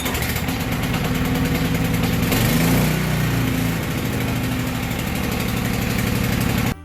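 Small gasoline engine of a portable generator running, its speed rising and settling again around the middle, then cutting off abruptly near the end.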